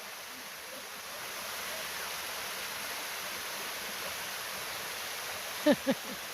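Steady rush of flowing water from a stream or small waterfall. Near the end come two short, loud calls that fall in pitch.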